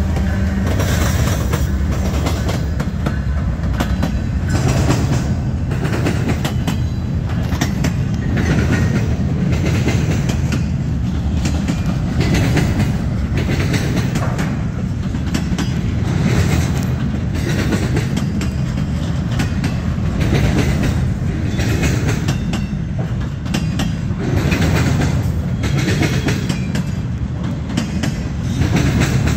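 BNSF freight train passing close by: trailing diesel locomotives running as they go past, then loaded flatcars rolling through with a steady low rumble and wheels clacking over the rail joints every second or two.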